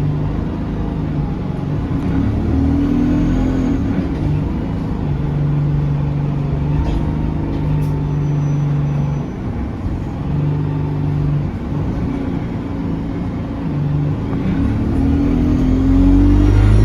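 Bus diesel engine heard from on board, drawing along and accelerating, its pitch rising near the start and again near the end. A faint high whistle comes in briefly about eight seconds in.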